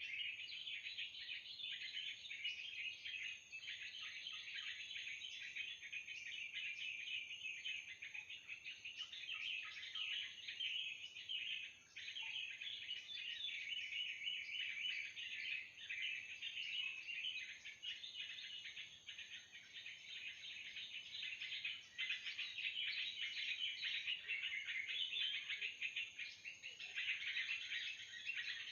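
Continuous dense chattering of trucukan (yellow-vented bulbul) calls, the lure used to draw birds into a trapping net, with a thin steady high tone behind it.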